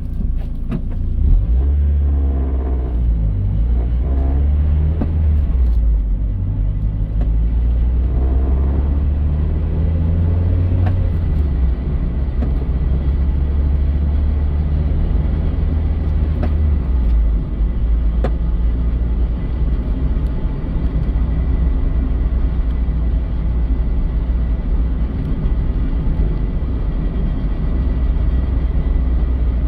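Mazda Eunos Roadster NA8C's 1.8-litre four-cylinder car running with a heavy low rumble that shifts during the first half and then holds steady. Under it is an abnormal rubbing, dragging noise that the owner hears from the car.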